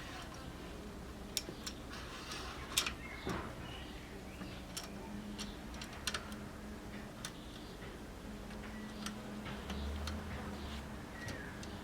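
Light clicks and taps at irregular intervals, over a low steady hum.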